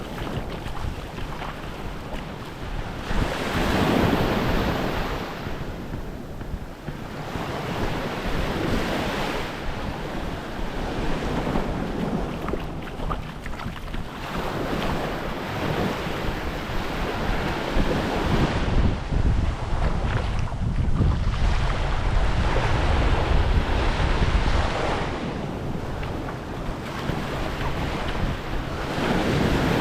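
Surf washing up on a beach, swelling and fading every few seconds, with wind rumbling on the microphone, heaviest in the middle stretch.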